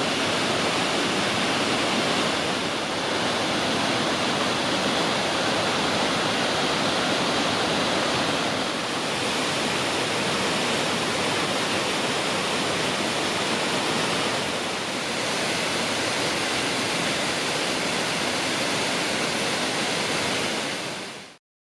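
Steady rush of water from Nunobiki Falls, a dense, even noise that fades out quickly near the end.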